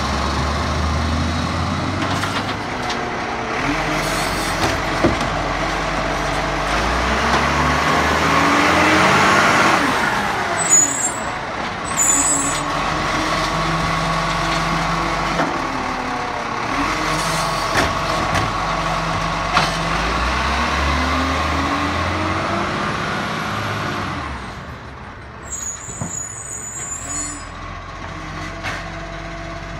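Recycling garbage truck working: its diesel engine revs up and settles back several times as it powers the hydraulics, with short air-brake hisses about a third of the way in and again near the end. The engine drops quieter after about 24 seconds.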